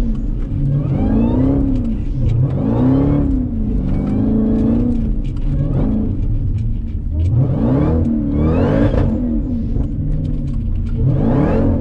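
Supercharged V8 of a Jeep Grand Cherokee Trackhawk revving up and dropping back about five times while doing donuts in snow with traction control off.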